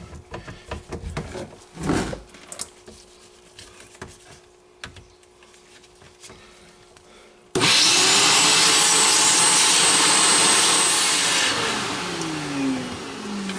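Shop vac switched on about halfway through, running steadily for about four seconds, then switched off and winding down with a falling whine near the end; a few light handling knocks come before it. It is drawing on a dishwasher drain line that pulls no water through, a sign the drain hose is clogged.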